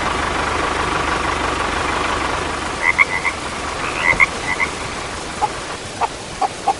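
Frogs croaking in short clusters of calls, about three and four seconds in, with lower single croaks near the end. Underneath runs a steady hiss like rain and a low engine-like hum.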